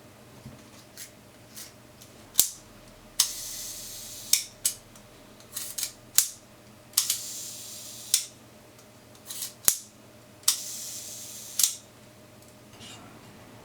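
Camera leaf shutter of a Seagull 4a TLR cocked and fired three times at a slow speed. Each release gives a click, then a whirring buzz of about a second, then a click as it closes, with smaller mechanical clicks of cocking in between.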